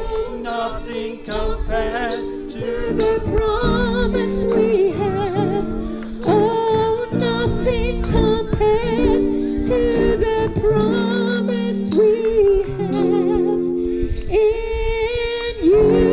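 Worship song: singing with a wavering vibrato over held, sustained chords, with low wind rumble buffeting the microphone.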